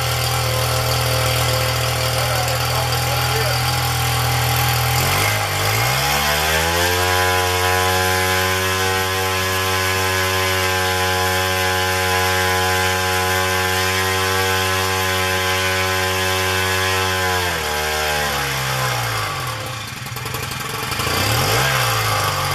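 Zenoah GT80 twin-cylinder two-stroke engine with a custom scale exhaust, idling, then throttled up about five seconds in to a steady full-throttle run of about ten seconds, then back down to idle. It sounds throaty, with a high tinny edge on top, and holds about 5,600 rpm at full throttle.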